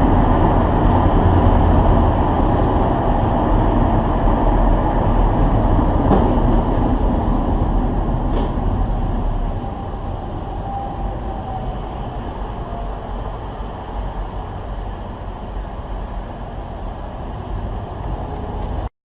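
Steady rumbling vehicle noise, louder in the first half, that cuts off suddenly near the end.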